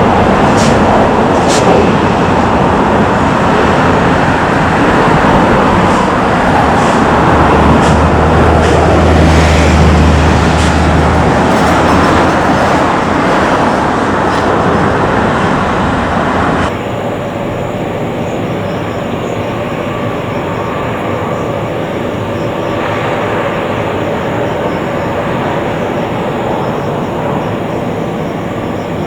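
Boeing 737-900 jet airliner landing, its CFM56 engines giving a loud, steady roar that swells with a deep low rumble about a third of the way in. About two-thirds through, the sound cuts abruptly to a quieter, steadier jet-engine drone with a whine in it, from an Airbus A340-300.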